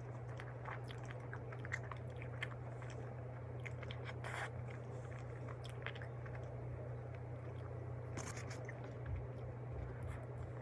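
A person chewing and biting into a soft cream-cheese cream bun close to the microphone, with many small mouth clicks. A steady low hum runs underneath.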